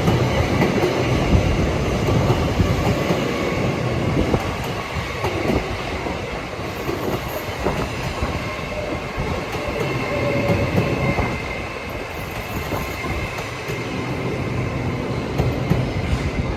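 LNER Azuma Class 801 electric multiple unit moving past, a steady continuous rumble of wheels and running gear with a faint high tone held throughout.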